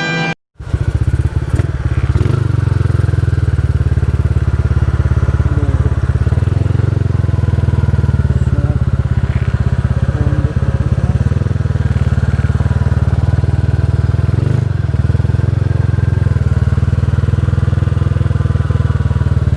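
Motorcycle engine running steadily with a low, fast-pulsing drone.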